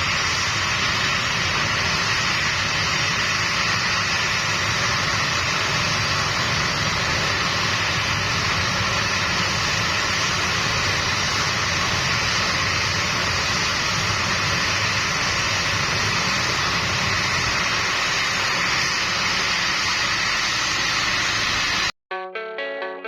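Steady, unchanging engine and rushing-air noise, loud and even. It cuts off suddenly near the end, where guitar music starts.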